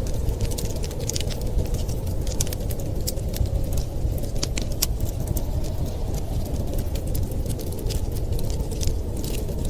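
Wood fire crackling in a fireplace, with irregular sharp pops and snaps over a steady low rumble of snowstorm wind.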